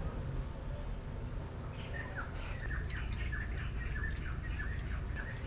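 A bird calling: a quick run of short, falling chirps, about four a second, starting about two seconds in, over a low steady hum.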